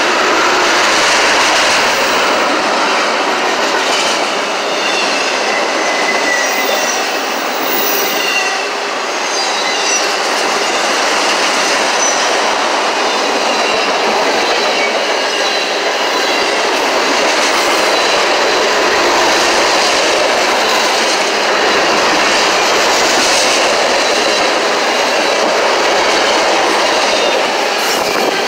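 A train passing close by: the steady, loud noise of railcars rolling over the rails, with faint high-pitched wheel squeal for a few seconds near the start.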